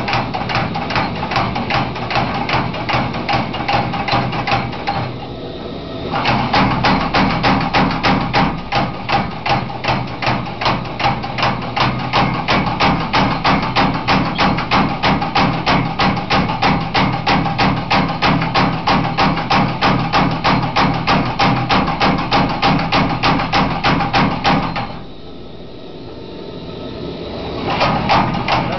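Homemade spring power hammer (Federhammer) hammering a hot Damascus steel billet, steady rapid blows at about three a second. The blows stop briefly about five seconds in and again near the end, then start again.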